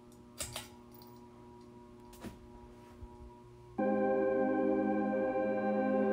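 Quiet room tone with a few soft clicks, then about four seconds in a loud, sustained organ-like chord starts suddenly and holds steady.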